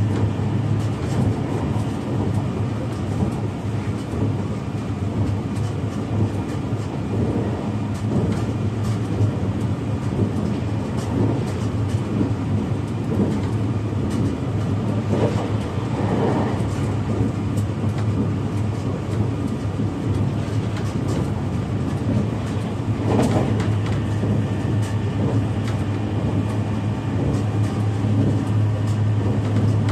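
Interior running noise of an E653 series 1100 electric limited express train under way: a steady low hum with wheel and rail noise and scattered light ticks, and the faint whine of its IGBT-VVVF inverter-driven motors.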